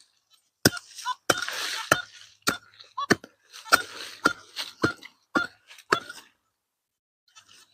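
A metal digging tool chopping and scraping into soil to dig out a metal detector target: about ten sharp strikes, nearly two a second, each with a gritty scrape, stopping about six seconds in.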